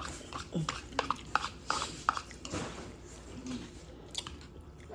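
A person chewing and eating food, with a run of small clicks and smacks through the first half, quieter toward the end.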